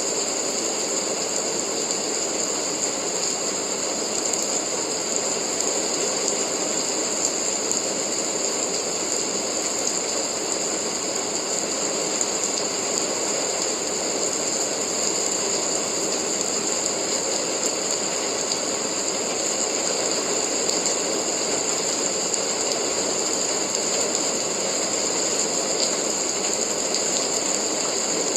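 Steady rain: a dense, even hiss that keeps the same level throughout.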